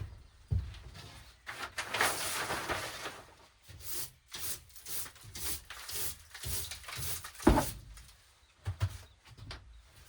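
Irregular knocks, rubbing and scraping of things being handled and moved, with one sharp, loud knock about seven and a half seconds in.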